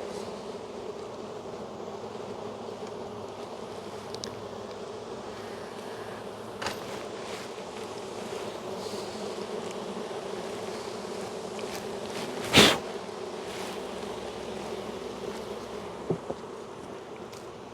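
Honey bee colony humming steadily from an open, crowded hive. A single loud, sharp knock about twelve seconds in, with a couple of fainter clicks before and after.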